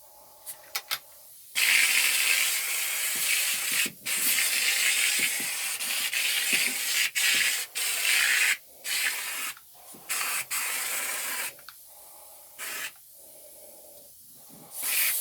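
Powder coating spray gun blowing powder on compressed air: a steady hiss in long bursts with short breaks, ending in a few short bursts.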